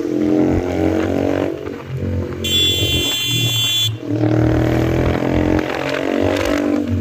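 Yamaha MT-15's single-cylinder engine running loud through an Austin Racing aftermarket exhaust. About two and a half seconds in, a high, many-toned sound joins it for about a second and a half.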